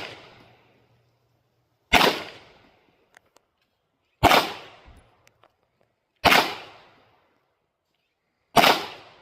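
Canik TTI Combat 9mm pistol firing four single shots, roughly one every two seconds, each with a short echo, and a few faint clicks between shots.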